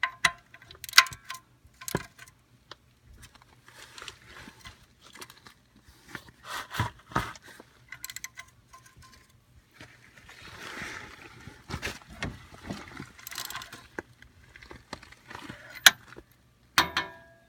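Scattered clicks, clinks and scraping of tools and metal parts being handled under a car while working the oil filter off, with some rustling in between.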